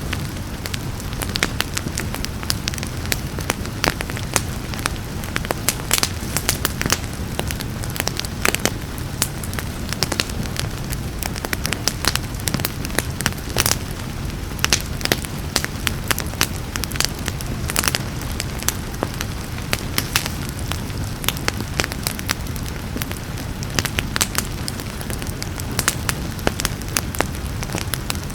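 Wood fire crackling and popping in a fireplace, with frequent sharp pops over a steady low rumble of the flames, mixed with a continuous hiss of rain.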